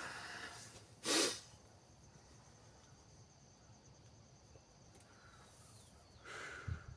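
A person's breathy exhales close to the microphone: a short, loud one about a second in and a longer, softer one near the end. A faint, steady, high-pitched whine runs underneath.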